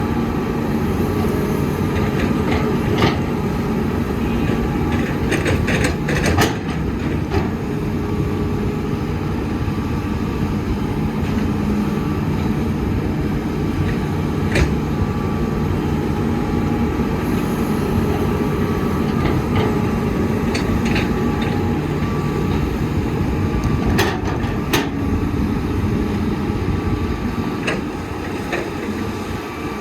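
Diesel engines of heavy earthmoving machinery running steadily under load, with scattered sharp knocks: a cluster about five to six seconds in and two close together near twenty-four seconds.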